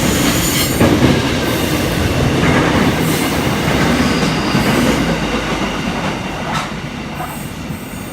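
Freight train wagons rolling past at speed: a steady rail rumble with wheels clacking over rail joints and a little wheel squeal, slowly fading toward the end as the train draws away.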